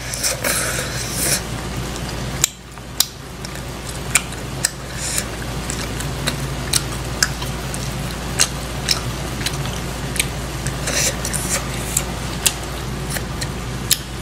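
Close-up mouth sounds of someone eating ramen noodles and chewy rice cakes: wet lip smacks and chewing clicks every half second to a second, with a louder slurping patch in the first second or so, over a steady low hum.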